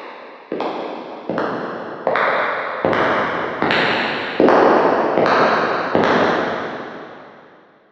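Footsteps walking at a steady pace, a little more than one step a second, each step ringing on with a long echo. The steps grow louder as they come closer, then stop about six seconds in, and the last one fades away.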